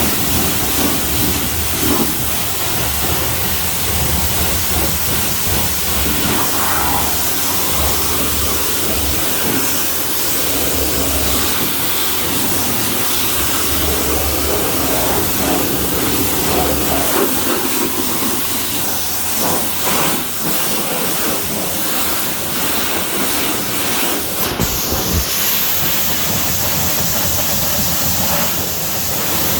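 High-pressure washer wand spraying water onto a car, a loud steady hiss; the spray's sound shifts about three-quarters of the way through.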